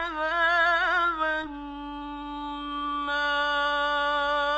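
Male voice reciting the Quran in the melodic mujawwad style. He sings the word 'عذاب' with a wavering ornamented run for about a second and a half, then holds one long steady note to the end.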